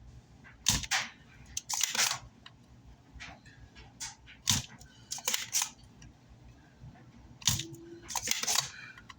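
Spring-loaded desoldering pump snapping as it sucks solder out of circuit-board through-holes: a run of about six sharp clicks, some with a short hiss of suction after them.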